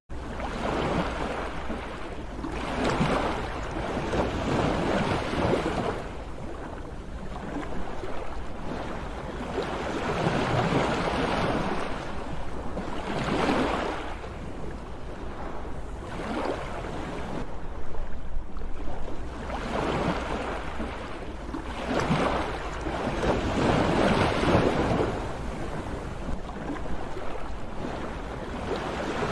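Sea waves washing in and breaking, the surf swelling and fading every few seconds over a steady low rumble.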